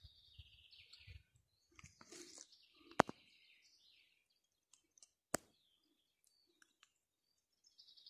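A songbird singing a short phrase that falls in pitch, repeated several times. Two sharp clicks sound a couple of seconds apart.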